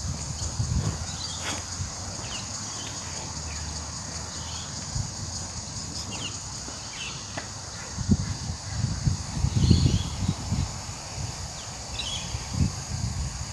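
Outdoor garden ambience: a steady high drone of insects with scattered short bird chirps. Irregular low rumbles come and go, strongest a little past the middle.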